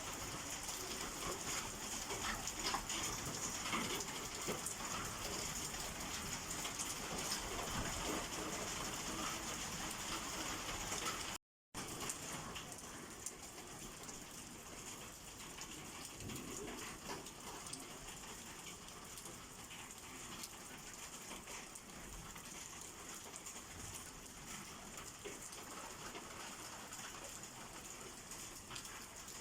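Steady rain falling, with the patter of drops striking surfaces. The sound cuts out for a moment about eleven seconds in and comes back a little quieter.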